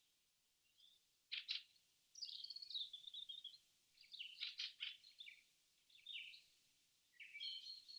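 Songbirds singing: scattered phrases of short high chirps and rapid trills, with silent gaps between them.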